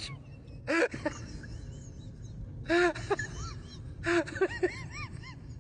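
A bird calling in three noisy bursts of short rising-and-falling notes, about a second or two apart, over a low steady rumble.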